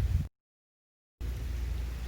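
Sea wind buffeting the microphone as a low, uneven rumble, which drops out to dead silence for just under a second soon after the start and then returns.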